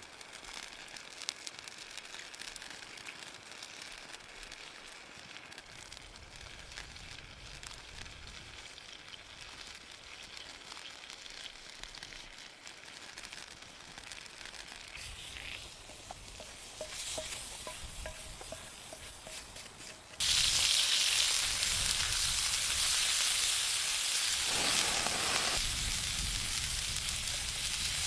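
Faint crackling and small handling clicks, then about twenty seconds in food goes into a hot pan and a loud, steady sizzle of frying starts abruptly.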